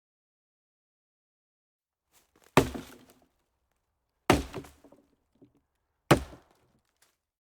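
Three sharp, heavy impacts spaced a little under two seconds apart, each with a short ringing tail, with silence between them.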